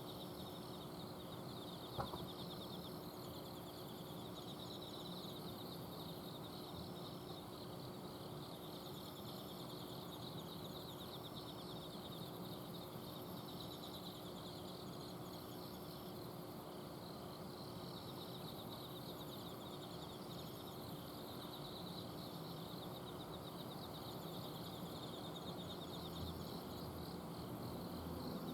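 Autumn insects chirping: several overlapping high pulsed trills that repeat every second or two, over the steady hum of an air-conditioner outdoor unit. A single short click about two seconds in.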